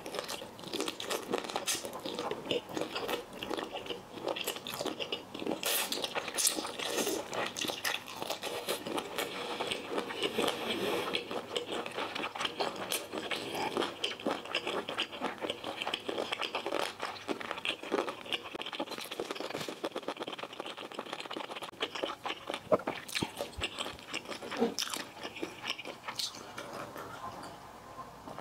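Close-miked crunching and chewing of lemon sour-spicy boneless chicken feet: a dense, unbroken run of crisp bites and chews.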